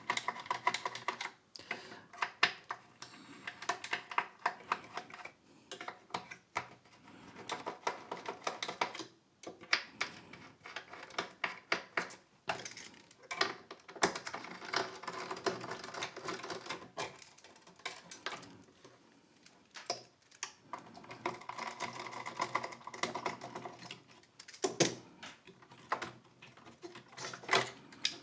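Screwdriver working the screws of a power-supply board: runs of rapid small clicks broken by single sharper clicks of metal parts being handled.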